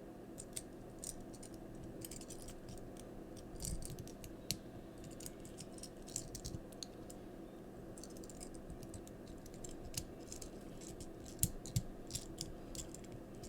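Small plastic Transformers Siege toy car figure being transformed by hand: scattered light plastic clicks and snaps as its parts are moved, over a faint steady hum.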